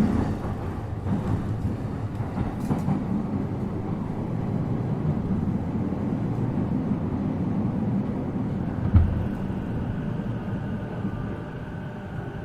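E233-7000 series electric train running, with a steady low rumble of wheels on track and one thump about nine seconds in. Near the end the rumble drops a little and a steady electric whine comes in.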